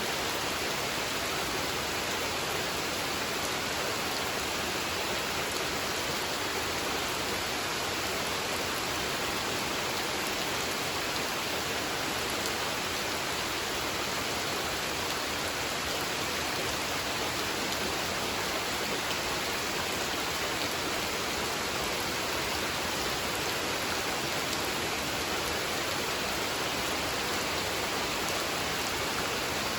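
Steady rain falling on a pond: an even, unbroken hiss of rain.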